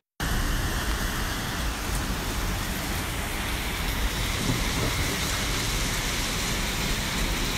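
Heavy rain pouring down onto a flooded street, a steady dense hiss of drops hitting standing water and pavement. It starts suddenly a moment in.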